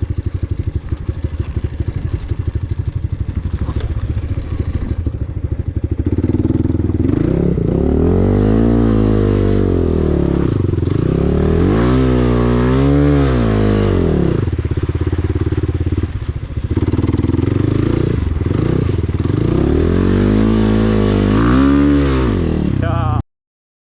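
Enduro motorcycle engine running with a fast, even putter. After about six seconds it is revved up and falls back several times, its pitch rising and falling each time. The sound cuts off abruptly near the end.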